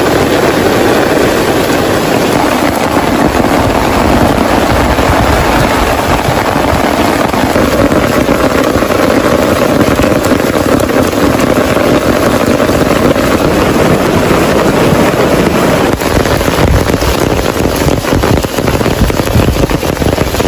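Heavy rain pouring down in a loud, dense, steady wash. In the last few seconds it turns more uneven, with heavier spells.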